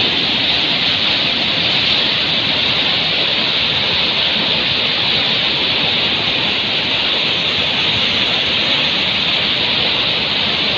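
Steady, loud rushing noise, strongest in the upper middle of the range, with no change or break.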